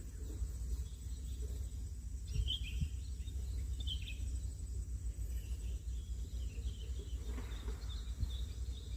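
Short, faint bird chirps, scattered and high, over a steady low outdoor rumble and a thin steady high-pitched whine.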